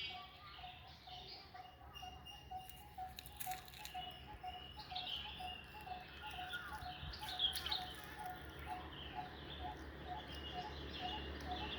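An engkuk bird calling in a long, steady series of short low notes, about two a second, while other small birds chirp higher up in the background.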